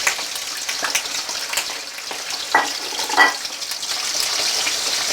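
Bone-in chicken pieces deep-frying in hot oil in a karahi: a steady sizzle with scattered crackling pops. Two louder sharp knocks stand out a little past the middle.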